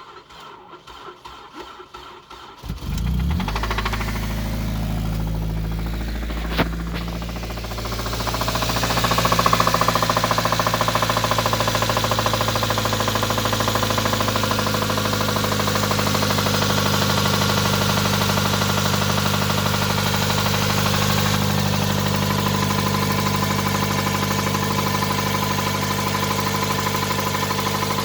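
Nissan R'nessa engine cranked by the starter, catching about three seconds in. It picks up in revs a few seconds later, then runs steadily with a knock from spun crankshaft bearings.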